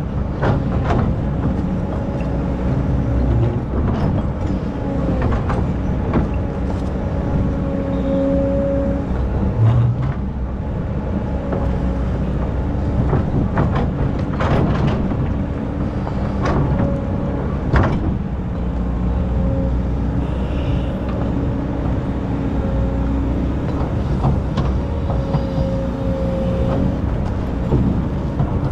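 Excavator's diesel engine running steadily, with a whine that comes and goes every few seconds and scattered sharp knocks.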